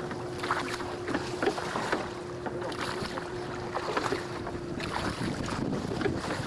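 Water splashing irregularly against the hull of an open rowing boat under way, with wind buffeting the microphone. A steady low hum runs underneath and stops about five seconds in.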